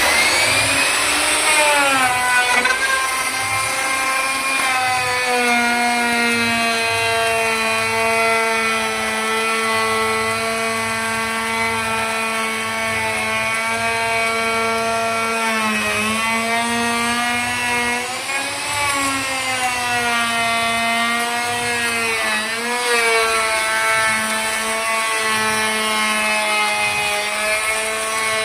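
Electric woodworking power tool running at speed with a steady whine; its pitch sags briefly a few times as it bites into wood under load.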